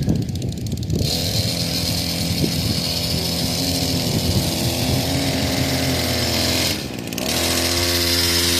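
Small dirt bike engine running, picking up about a second in and holding a steady note, with a short dip about seven seconds in before it runs on again.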